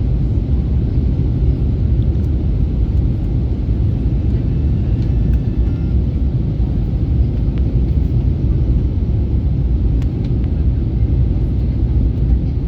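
Steady low rumble of cabin noise inside an Airbus A321neo airliner in flight, the engine and airflow noise holding an even level.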